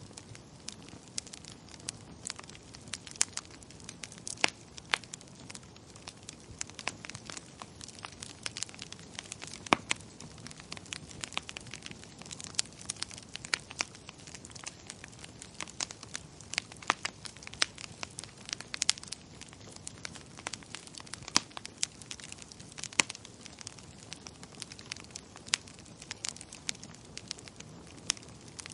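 Wood fire crackling in a fireplace: irregular sharp pops and snaps, several a second, over a low steady rush of burning.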